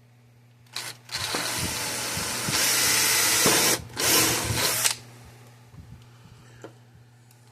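Handheld power drill boring a hole. It runs in bursts: a short blip about a second in, then a steady run that gets louder halfway through, a brief stop, and one more short burst.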